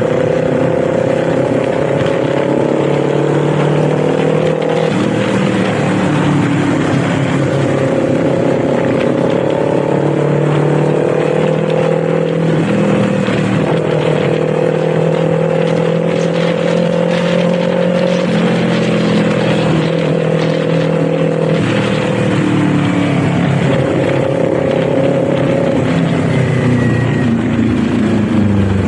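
Kawasaki Z400's parallel-twin engine and exhaust heard from the rider's seat while riding. The engine note climbs steadily and then drops back several times as the throttle and gears change.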